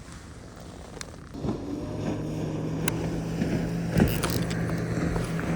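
A boat motor starts up about a second and a half in and runs with a steady low hum, with a few short knocks of handling on top.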